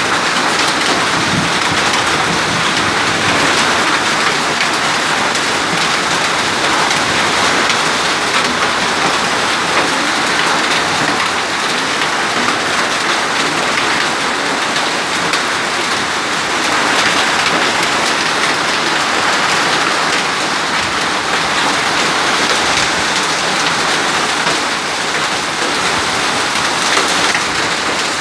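Hail falling with heavy rain, a dense steady clatter of many small impacts.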